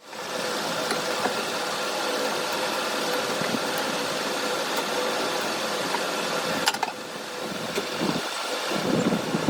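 A machine running steadily with an even hiss and a faint hum, a sharp click about seven seconds in, then lower, uneven rumbling near the end.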